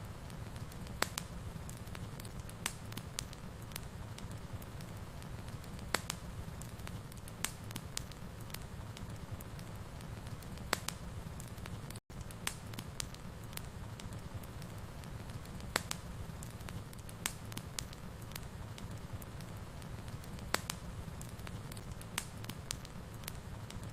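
Wood fire in a fireplace crackling: a steady low rumble of flames with sharp, irregular pops and snaps, roughly one or two a second. A split-second dropout comes about halfway through.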